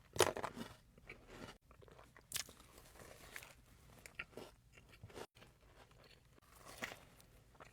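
Biting into and chewing a Biscoff doughnut, with scattered soft crunches and mouth sounds; the first bite near the start is the loudest.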